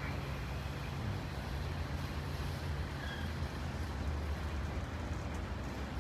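Airbus A321-211 airliner's CFM56 turbofan engines heard from the ground as it flies over: a steady, even rumble.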